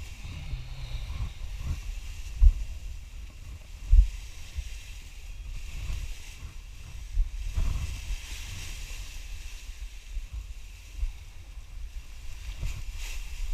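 Wind buffeting the microphone: a low rumble with a hiss over it, and two sharp gusts about two and a half and four seconds in.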